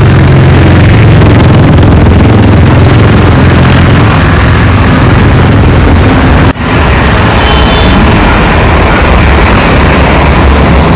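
Loud car engine noise, steady and low-pitched, with a brief break about six and a half seconds in.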